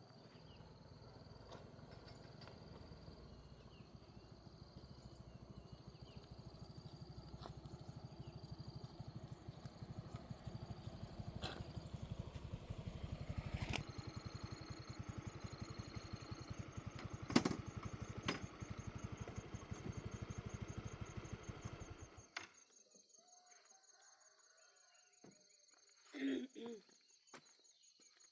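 A vehicle engine running with a fast, even pulse, growing louder, then switched off abruptly about 22 seconds in. Crickets chirp steadily afterwards.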